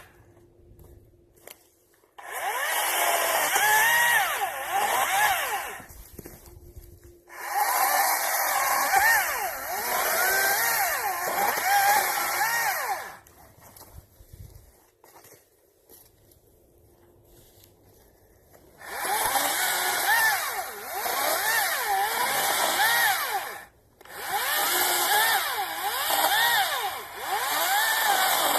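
Greenworks 40-volt battery chainsaw cutting wood in four separate runs, its motor pitch dipping and recovering over and over as the chain bites. Between runs it stops dead to near silence, with no idle.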